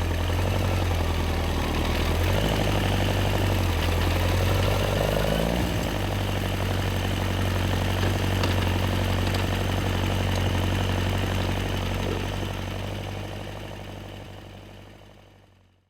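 Yamaha XJR1300's air-cooled inline-four engine idling steadily, with a slight change in pitch about five seconds in, then fading out over the last few seconds.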